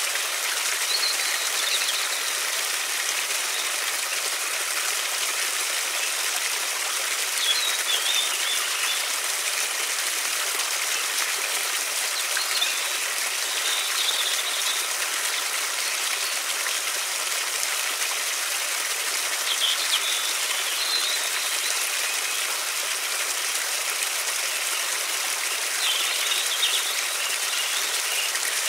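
River water rushing steadily, with a handful of short, high bird chirps scattered through it.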